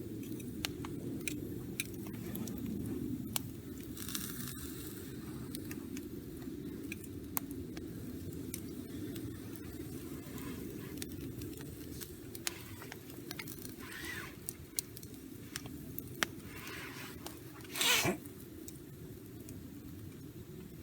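Small wood fire crackling, with scattered irregular pops over a steady low rush, and one louder brief burst of noise about eighteen seconds in.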